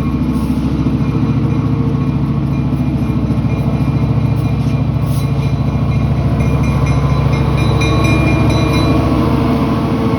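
Diesel locomotive running loudly and steadily close by as a train passes, its engine a deep even drone. Thin high-pitched squeal tones come in for a few seconds about two-thirds of the way through.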